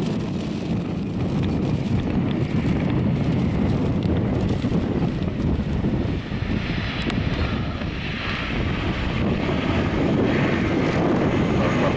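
Boeing 767 jet engines rumbling steadily, with wind on the microphone. A higher hiss joins in from about the middle and fades near the end.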